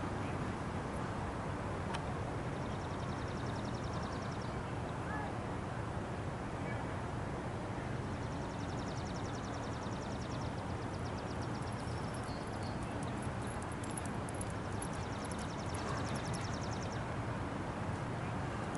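A small bird's rapid, dry, high-pitched trill, heard three times for a few seconds each, over steady outdoor background noise.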